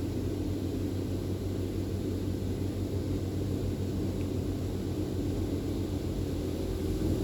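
PDQ Laserwash G5 touchless car wash machinery running, a steady low hum.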